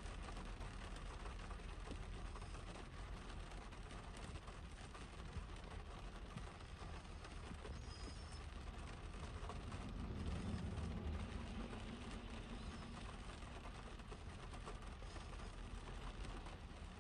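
Rain falling on a parked car's windshield and roof, heard from inside the car: a steady hiss of many small drop ticks. A low rumble swells for a couple of seconds about ten seconds in.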